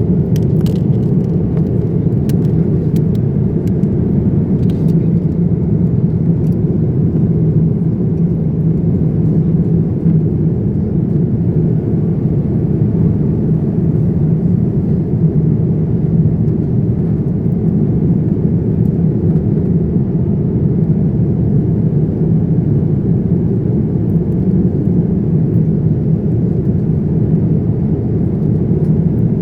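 Airliner cabin noise in flight: a steady, unbroken low drone of engines and airflow heard from inside the cabin.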